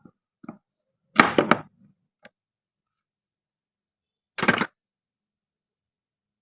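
Toy fruit and vegetable pieces being cut with a toy knife and knocked on a cutting board: a few faint clicks, a loud cluster of quick cracks and knocks about a second in, and one more short burst about four and a half seconds in.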